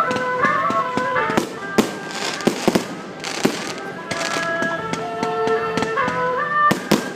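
Electronic fireworks display going off: irregular firecracker bangs, some in quick clusters, over a festive melody of held, stepping notes.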